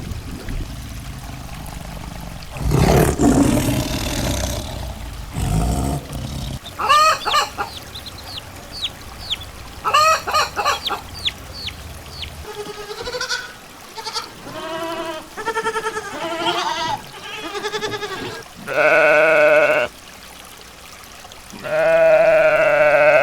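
A succession of different animal calls, one clip after another. It opens with a noisy burst, then chirping calls and a run of short pitched calls, and near the end two long, steady calls of about a second each.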